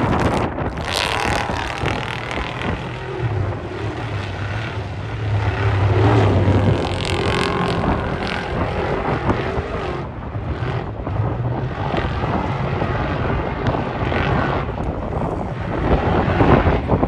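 A vehicle engine running, heard under heavy wind buffeting the microphone.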